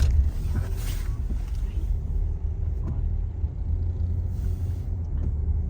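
Car road noise heard inside the cabin while driving on snowy roads: a steady low rumble, with brief hissing swells about a second in and again near the end.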